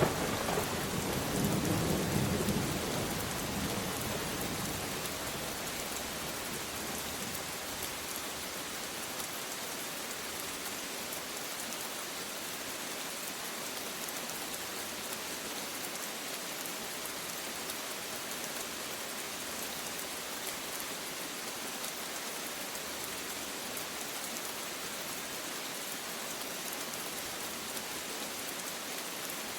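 Steady rain falling, with a thunder rumble dying away over the first few seconds.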